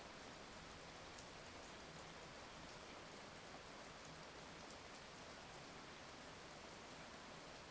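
Steady, soft rain falling, with the faint ticks of single drops striking close by; no thunder.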